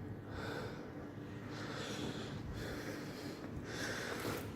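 A man breathing heavily close to the microphone, three breaths about a second and a half apart.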